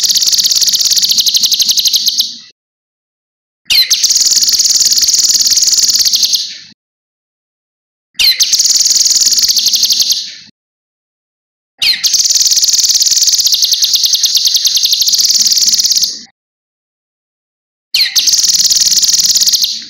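Cucak kinoi singing loud, high-pitched phrases of rapidly repeated notes, each opening with a quick upward sweep. The phrases last two to four seconds each and come about five times, with short silent gaps between them.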